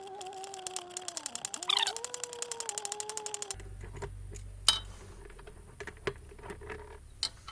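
Ratchet with a 10 mm socket backing off a nut: a steady whine with rapid clicking, about ten a second, for the first three and a half seconds, then scattered single clicks.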